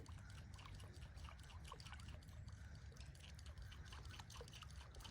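Very faint trickling and dripping of a bird-shaped surface lure paddling across calm water as it is wound in, with small scattered ticks over a low steady rumble.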